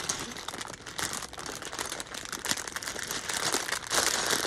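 Plastic parts bag crinkling as loose Lego pieces are rummaged through, a steady stream of rustles and small clicks that gets louder near the end.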